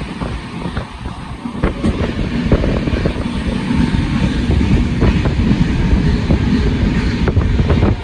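A train running along the rails: a loud, heavy low rumble with scattered sharp clacks.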